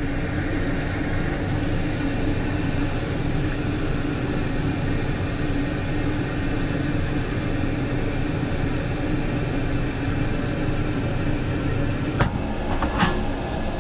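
Toilet flushing and the tank refilling through a newly installed fill valve: a steady rush of water with a constant tone. About twelve seconds in the hiss drops suddenly, followed by a couple of short clicks.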